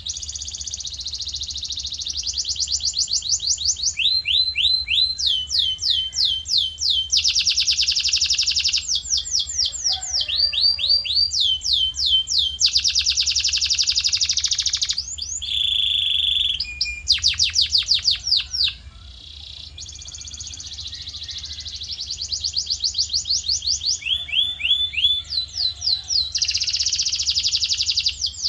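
Male canary singing a long continuous song of rapid rolling trills, each phrase a fast run of repeated sweeping notes, switching to a new phrase every second or two, with a short steady whistle partway through.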